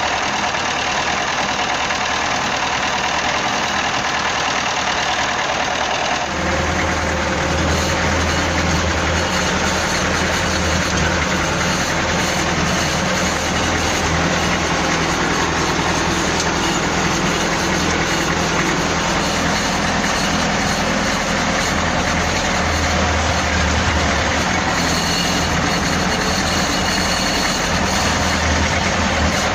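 Diesel engine of a T-74 crawler tractor running steadily while plowing. About six seconds in, the sound changes abruptly to a deeper, heavier drone.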